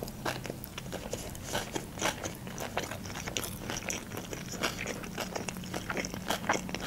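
Close-miked chewing of a mouthful of sushi roll: an irregular stream of small mouth clicks, several a second.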